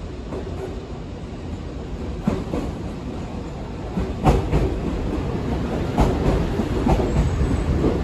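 Nankai electric commuter train rolling slowly in over curved pointwork, its wheels knocking over rail joints and switches every second or two over a steady low rumble that grows louder as it nears.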